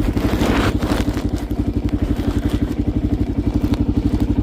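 1990 Yamaha XT350's single-cylinder four-stroke engine idling, a steady, even train of firing pulses. A short rustle or clatter comes about half a second in.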